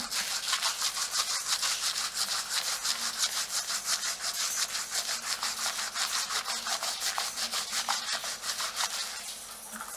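Fingernails scratching briskly through the hair and across the scalp, a fast, even rhythm of scratchy strokes at about six a second that stops shortly before the end.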